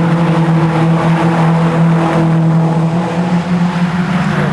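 Racing car engine running hard at steady high revs, holding one pitch and wavering slightly near the end.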